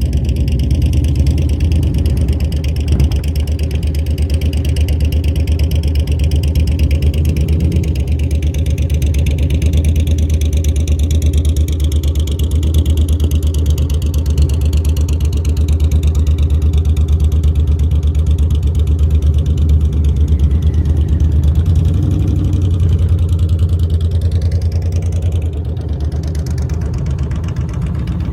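Motorcycle engine running steadily throughout, getting a little quieter near the end.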